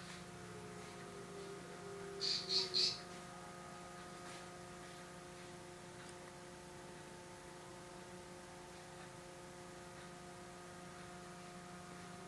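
Steady low electrical hum made of several fixed tones, broken about two seconds in by three quick high-pitched chirps.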